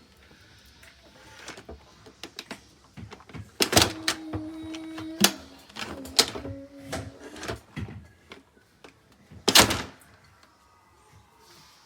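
A series of irregular knocks and clicks, the loudest about four and nine and a half seconds in, with a short squeak in between; the vacuum motor is not running.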